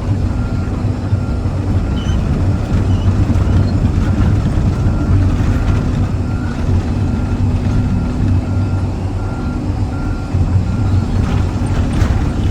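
John Deere 350 excavator's diesel engine running steadily, heard from inside the closed cab. The machine's travel alarm beeps over and over as the excavator tracks toward the pile.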